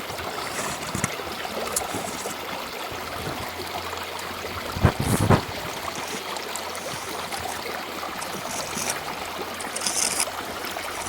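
Steady rush of running water, with a few low knocks about five seconds in.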